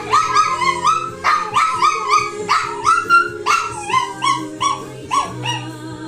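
A dog 'singing': a rapid run of short, high yipping calls, each rising in pitch, about three a second, over steady held notes of music.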